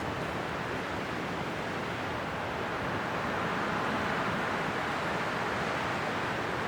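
Steady winter wind blowing, a continuous rushing noise that swells slightly a few seconds in.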